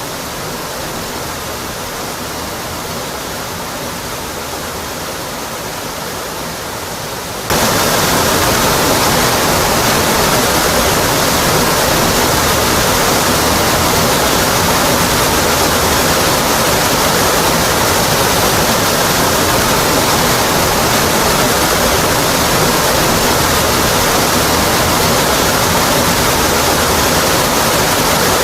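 Steady rushing roar of Rocky Brook Falls, a waterfall cascading onto rock. About seven seconds in it jumps suddenly louder and brighter, then holds steady.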